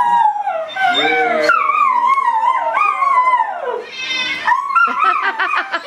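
Dogs howling together: several long, wavering howls overlap, sliding up and down in pitch. About four seconds in one howl falls away, and shorter rising cries take over.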